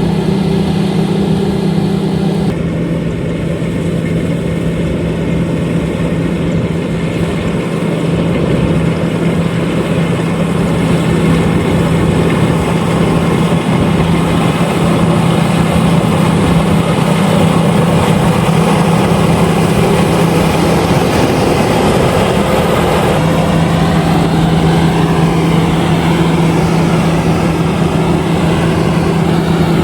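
A LOVOL RG130EVO combine harvester running steadily while harvesting rice: a continuous engine hum with a mechanical clatter from the machine. The hum's steady tone fades briefly about two-thirds of the way through, then comes back.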